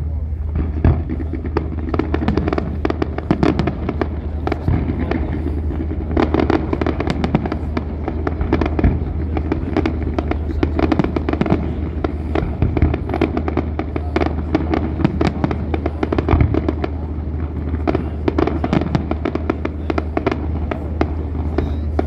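Fireworks display: a dense, rapid string of crackling and popping bangs throughout, over a steady low hum.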